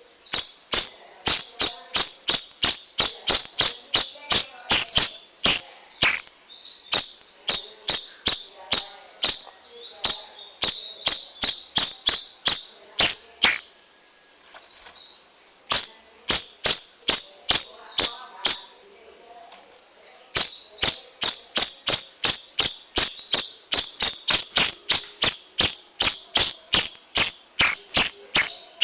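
Cucak rawis singing its rolling song: long runs of rapid, sharp, high-pitched repeated notes, about three a second, broken by short pauses.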